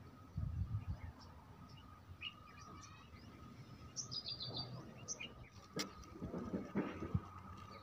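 Small birds chirping, with a quick run of high notes about four seconds in, over a faint steady high tone. Low rustling and handling sounds come shortly after the start and again near the end, with a sharp click in between.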